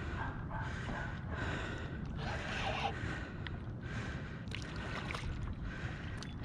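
A man breathing hard in a steady rhythm, roughly one breath a second, over a constant low rumble.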